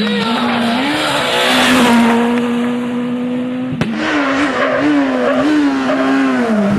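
Rally car engine running hard at high revs, its pitch dipping and rising as the driver lifts and gets back on the throttle, holding steady for a couple of seconds in the middle. A single sharp crack a little over halfway through.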